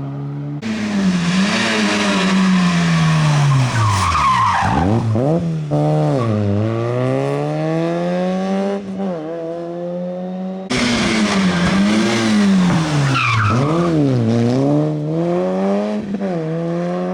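Rally car engine revving hard, its pitch repeatedly rising and dropping through gear changes and lifts off the throttle, with tyres squealing and a hiss of tyre noise. The sound changes abruptly about ten and a half seconds in, as a second car takes over.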